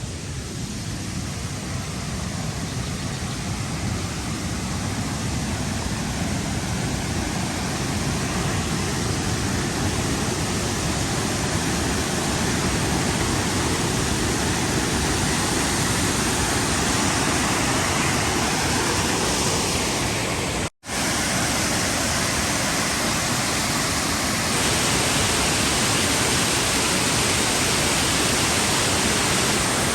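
Waterfall rushing: a steady, loud roar of falling water that builds over the first few seconds, with a split-second dropout about two-thirds of the way through.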